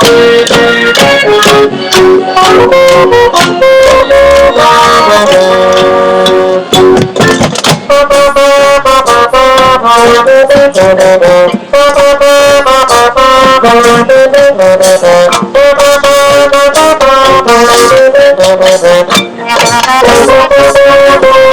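High school marching band playing loudly, with brass carrying the melody over sharp percussion hits.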